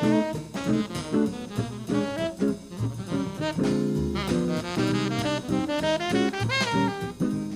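Jazz band playing, a saxophone carrying a moving melody over drum kit and other instruments.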